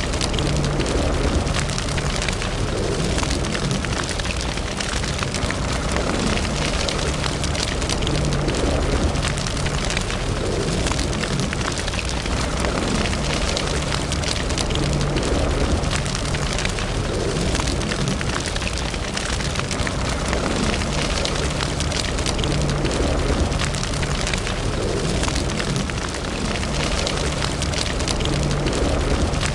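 Fire burning in a fireplace: dense, constant crackling and popping over a steady low rumble.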